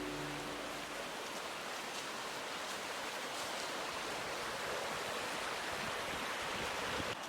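Steady rush of flowing water, as of a mountain stream or falls.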